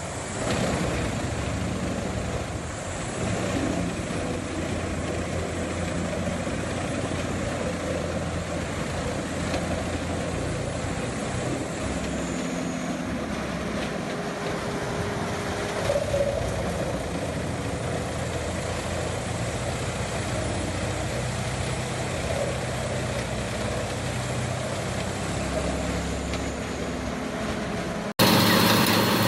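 Large industrial wood chipper running steadily: a low engine drone under a continuous rough noise of wood being shredded. About a second before the end it cuts abruptly to a louder machine sound.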